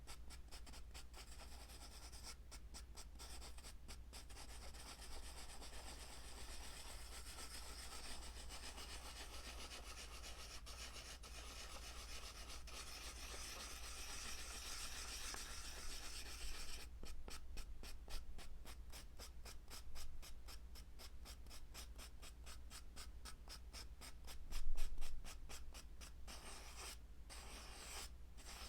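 Close-miked rubbing and scratching, an ASMR trigger: a steady hiss of rubbing, then quick repeated strokes through the second half, with one louder scrape near the end.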